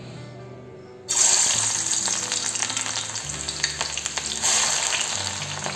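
Sliced onions dropped by hand into hot oil in a steel pan, setting off a sudden loud sizzle with crackling about a second in as they begin to fry.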